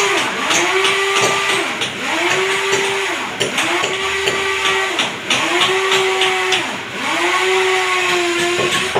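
Hand-held power tool motor revving up and easing off in about six repeated pulses, roughly one every one and a half seconds, with a whirring, grinding noise underneath.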